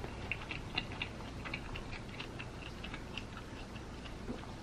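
A person chewing a mouthful of food close to the microphone, with the mouth closed: soft, irregular wet clicks and smacks.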